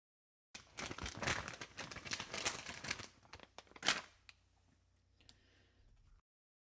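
Crinkling and rustling of plastic packaging being handled. The crackling is dense at first, turns to scattered crackles with one sharp louder one about four seconds in, then stops abruptly.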